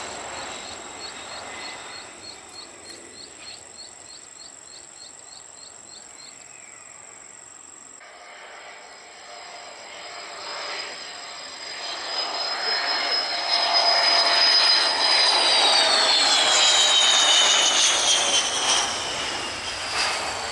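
Jet airliner engines: a fading engine noise gives way to a second jet that builds up and passes loudly about two-thirds through, its high engine whine falling in pitch as it goes by, then dies away.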